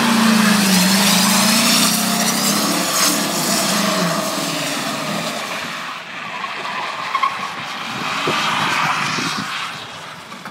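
Chevy Silverado pickup's engine revving high with its tires spinning and squealing in a donut. The engine pitch wavers for about the first four seconds, then the engine note drops away and the tire noise fades toward the end.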